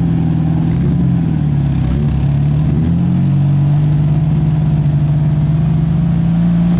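A 1992 Jeep Wrangler YJ's engine running steadily while driving. Its pitch dips slightly about a second and a half in, then climbs back up and holds.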